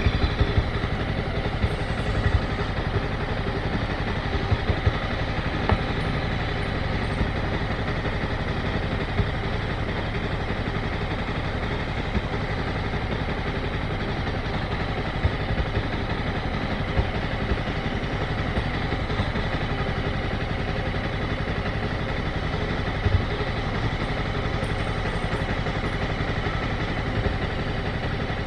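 Motorcycle engine running steadily at low revs, with no revving up or down and a few brief knocks now and then.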